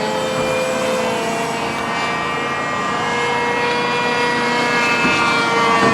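Electric motor and propeller of an RC seaplane, the ModelAero Polaris XL, whining steadily in flight, its pitch drifting slightly up and down with throttle and distance.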